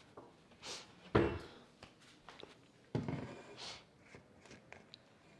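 Kitchen handling noises: two dull thumps about two seconds apart, the first the loudest, with brief rustles and small clicks between them.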